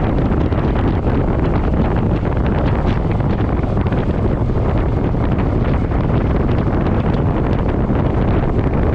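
Wind buffeting the camera microphone on a moving Suzuki Boulevard M50 motorcycle, a steady loud rush, with the bike's V-twin engine and road noise underneath.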